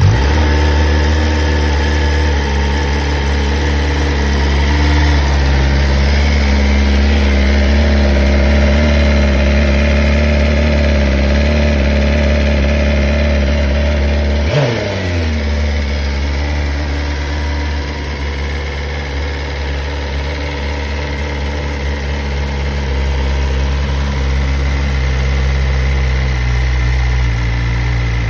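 BMW S 1000 RR's 999 cc liquid-cooled inline-four engine idling steadily just after its first start-up. One quick blip of the throttle about halfway through sends the revs briefly up and back down before it settles to idle again.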